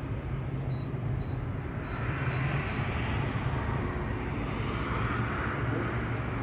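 Street traffic: a steady engine hum, with the noise of passing vehicles swelling about two seconds in and again near five seconds.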